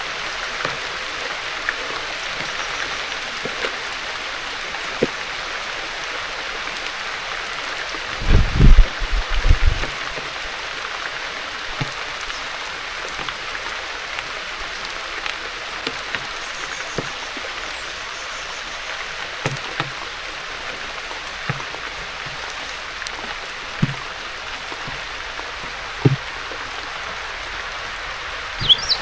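Steady rain falling in a garden, with a loud flurry of low thumps about eight seconds in and a few single knocks and taps later. A short high chirp comes near the end.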